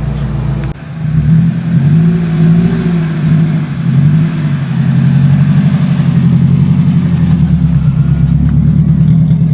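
Nissan 240SX S14's engine running: the revs rise and fall a little a couple of seconds in, then it settles into a steady, evenly pulsing run.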